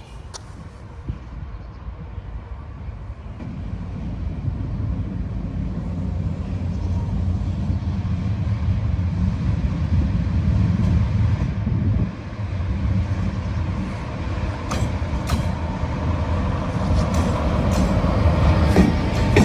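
Train approaching on the line, its low rumble growing steadily louder. Sharp clicks of the wheels over rail joints come in during the last few seconds.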